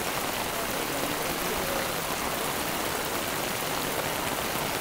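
Heavy rain falling steadily on floodwater and the ground, a dense, even hiss.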